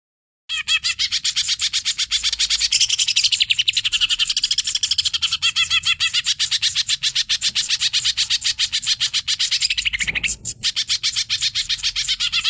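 Green leafbird (cucak ijo) singing a fast, unbroken stream of high, chattering notes, many per second. It starts about half a second in and briefly falters near the end.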